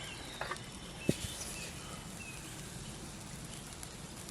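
Steady outdoor background noise with a few short, faint bird chirps and two sharp clicks, the louder one about a second in.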